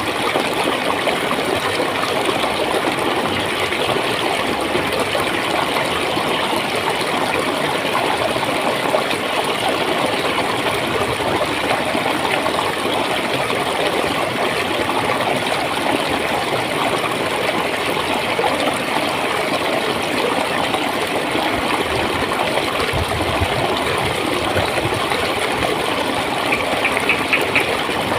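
Clear water flowing and gurgling steadily. Near the end a short run of fast, high-pitched ticks sounds over it.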